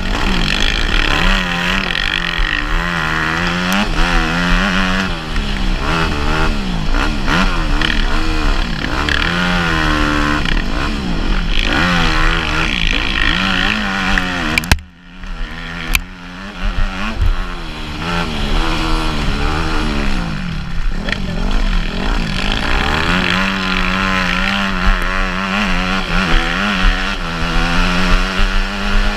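Motocross bike engine revving up and falling back over and over, at full race pace. About halfway through there is a sharp knock followed by a second or so of much quieter sound before the engine is heard again.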